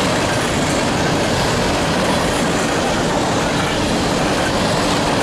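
Covered hopper cars of a freight grain train rolling past, a steady loud noise of steel wheels running on the rails.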